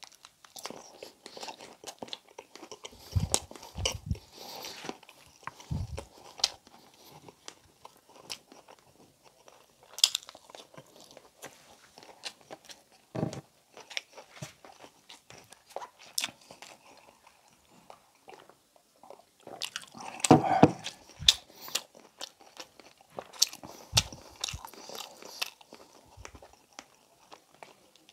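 Close-miked eating: a man biting into and chewing pieces of Filipino pork humba (pork belly braised in Coca-Cola), with irregular wet mouth clicks. The loudest bites come a few seconds in, about ten seconds in, and around twenty seconds in.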